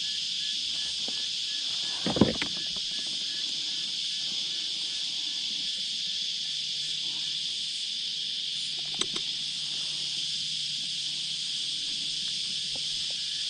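A chorus of cicadas keeps up a steady, high, unbroken buzz. A single knock about two seconds in and a sharp click near nine seconds come from handling gear in the kayak.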